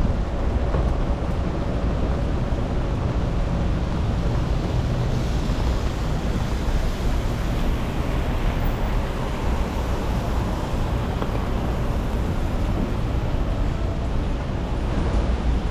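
Steady city traffic noise on a wet street: a continuous low rumble with tyre hiss, and no single event standing out.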